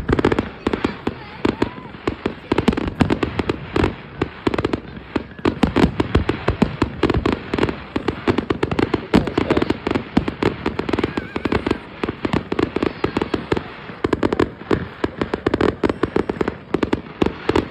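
Fireworks going off in a continuous barrage: rapid bangs and crackles, many per second, with no break.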